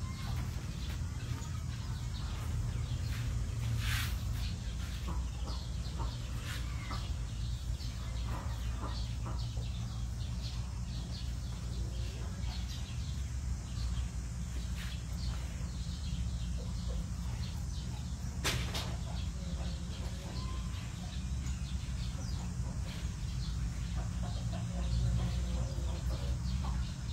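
Barn ambience: scattered short bird chirps over a steady low rumble, with two sharp knocks, one a few seconds in and one past the middle.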